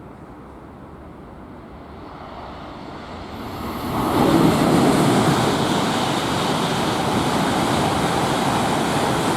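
Tohoku Shinkansen train passing through the station at speed without stopping: a rushing noise that builds, turns loud about four seconds in, and stays loud as the train goes by.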